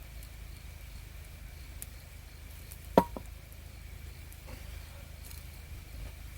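A single sharp knock about halfway through, followed a moment later by a fainter one, over a low steady rumble.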